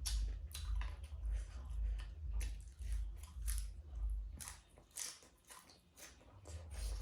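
A person chewing and biting food with wet mouth clicks and smacks, about two chews a second. The chewing eases off briefly near the end.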